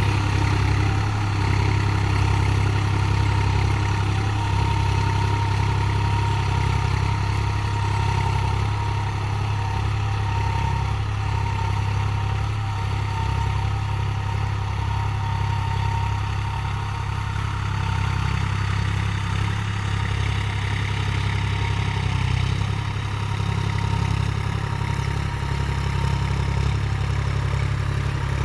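New Holland 4710 4WD tractor's diesel engine running steadily, with a faint high whine held throughout.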